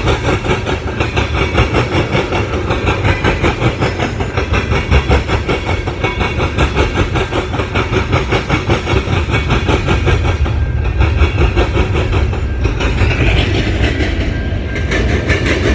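Freight cars of a mixed freight train rolling past, their wheels clattering in a fast, steady rhythm over the rails.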